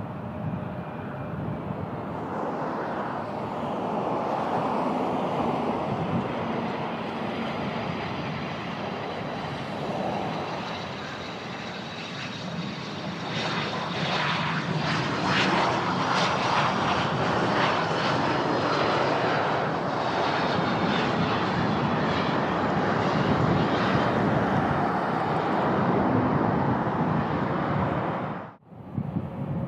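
Airplane engines passing close by, a steady noise that grows louder about halfway through with a faint high whine that shifts in pitch, over wind buffeting the microphone. It breaks off briefly near the end.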